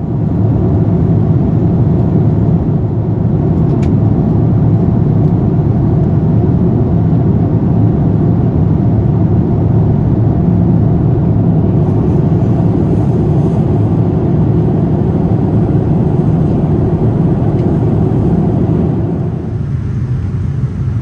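Steady low rumble of a moving vehicle, easing slightly near the end.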